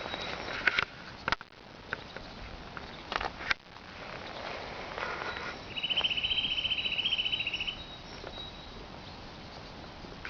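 A bird sings one rapid, even, high trill lasting about two seconds, a little past the middle. A few sharp clicks and rustles come earlier, over a steady outdoor background.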